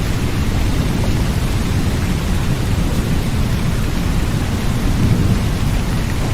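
Rain sound recording: steady rain with a deep continuous rumble, swelling slightly about five seconds in.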